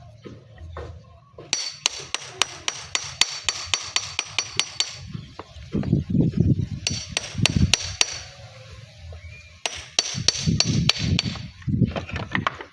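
Hammer striking a chisel to split a natural flat stone along its layers: quick runs of ringing metallic taps, about five a second, broken by heavier dull knocks.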